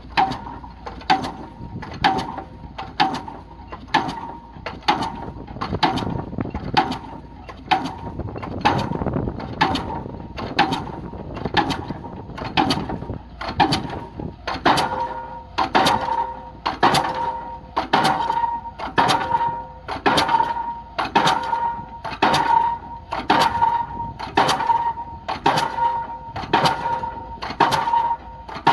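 Diesel pile hammer striking a precast concrete spun pile at a steady rate of about one blow a second, each blow a sharp bang followed by a metallic ring. About halfway through the ringing grows stronger and a second, lower ring joins it.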